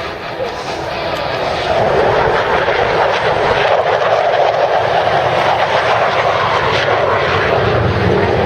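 Jet engines of the Thunderbirds' two solo F-16 fighters making a low pass. The noise grows louder about two seconds in, then holds steady and loud.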